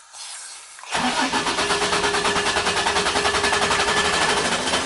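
Vehicle engine cranking and catching about a second in, then running at a steady idle with an even, rapid pulse.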